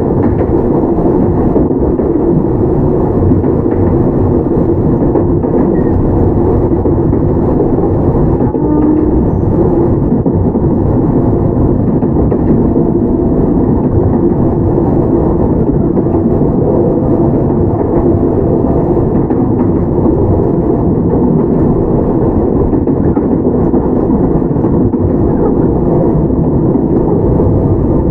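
Onboard running sound of a Toyama Chitetsu 17480-series field-chopper electric train (ex-Tokyu 8090) at speed. Wheels and traction gear give a steady rumble, with a faint whine over it.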